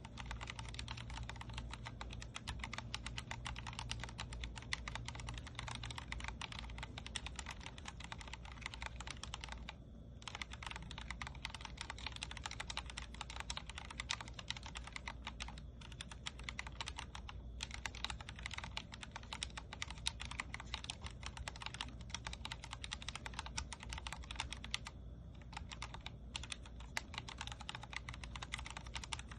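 Steady, fast typing on a Vortex Core 40% mechanical keyboard with linear Cherry MX Speed Silver switches: a dense run of keystroke clicks and clacks, broken by a few brief pauses.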